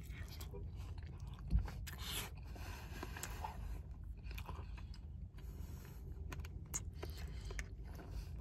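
Faint close-up chewing of a mouthful of chicken and rice, with small wet mouth clicks. There is a single soft knock about a second and a half in.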